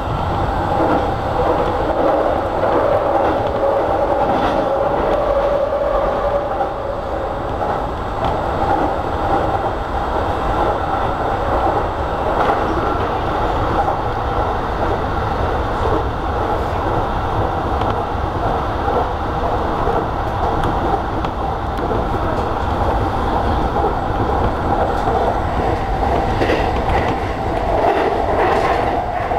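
E233-series electric train running at speed, heard from inside the front of the train: a steady rumble of wheels on rail with a steady hum, and a few clacks over rail joints.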